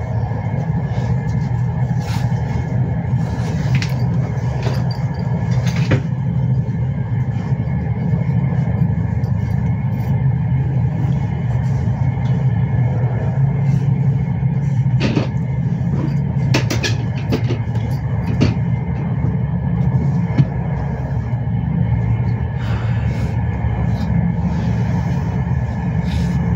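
Intercity train running along the track: a steady low rumble with scattered clicks and knocks.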